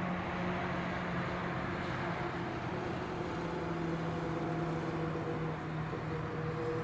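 A steady engine drone with several held tones that shift slightly in pitch partway through.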